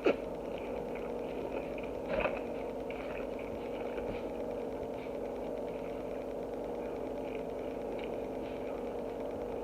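A steady low mechanical hum, like a fan or household appliance, with one brief louder sound about two seconds in.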